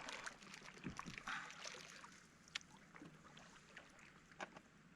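Faint scattered clicks and small knocks from handling fishing gear in a kayak; the sharpest click comes about halfway through.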